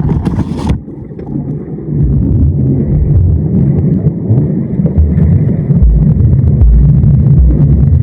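Loud, muffled low rumbling and buffeting on the microphone, with no clear tone. Less than a second in, the higher sounds drop out suddenly and only the deep rumble is left.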